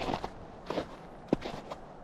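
Footsteps in snow at an even walking pace: about three steps in two seconds.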